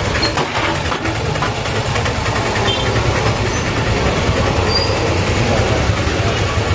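Motorcycle and scooter engines idling close by with a steady low throb, amid street noise.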